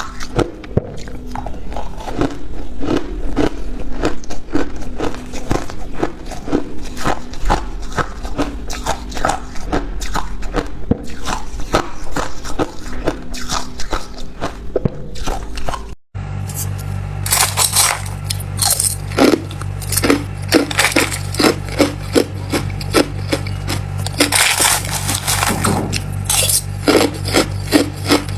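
Hard ice being bitten and crunched in the mouth: a rapid, continuous run of crisp crunches. About halfway there is a brief break, after which the crunching is brighter over a steady low hum.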